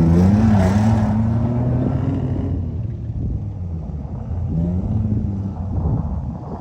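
Truck engine revving hard, its pitch rising and then fading away over the first couple of seconds, with a second short rev about four and a half seconds in.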